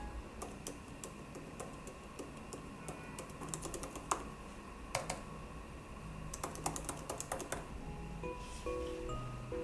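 Typing on an iPad keyboard case: irregular key clicks in short runs, over soft background music.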